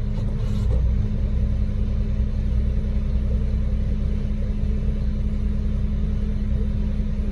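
Engine of a concrete mixer truck running steadily: a low, even rumble with a constant hum.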